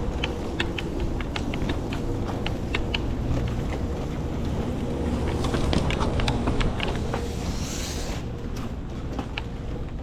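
Truck engine running with a steady low rumble, under scattered sharp clicks and rattles, and a short burst of air hiss about eight seconds in.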